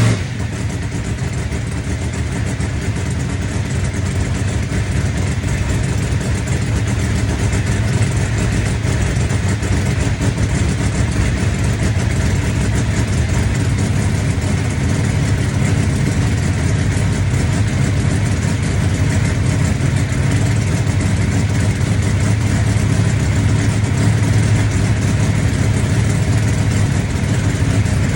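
Drag race car engine idling steadily, a low even hum with no revving.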